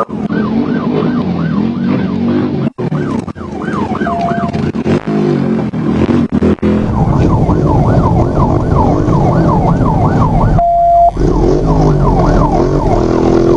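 Police car siren wailing in a fast yelp, each rising and falling sweep lasting about a third of a second, over engine and road noise that gets louder about halfway in. Two short steady beeps come about four seconds in and near the end.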